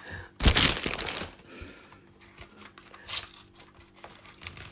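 Handling noise of unboxing: a loud crinkling rustle of packaging about half a second in, and a shorter one about three seconds in.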